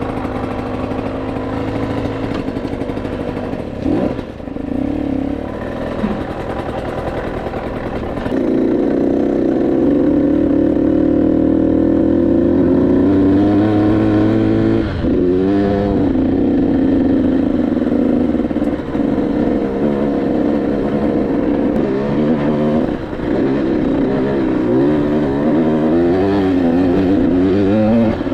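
KTM 85SX dirt bike's 85cc single-cylinder two-stroke engine running. It is lower and steady at first, gets louder about eight seconds in, and later its revs rise and fall again and again.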